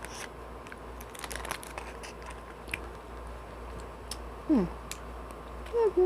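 Close-up mouth sounds of someone eating mochi ice cream: soft chewing and small wet clicks. Two short pitched sounds stand out, the louder one falling sharply about four and a half seconds in and the other near the end.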